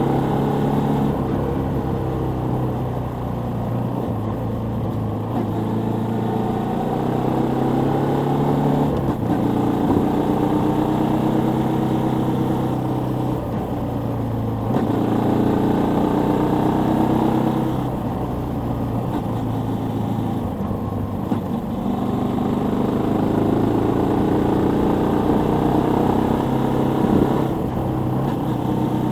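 Suzuki Volty 250 (TU250) single-cylinder engine running on the move, its pitch climbing and dropping several times as the bike accelerates and eases off.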